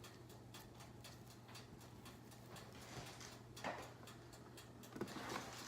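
Quiet handling of raw bacon strips being laid onto a plastic microwave bacon tray, with two soft short knocks about three and a half and five seconds in. Underneath are a low steady hum and faint ticking.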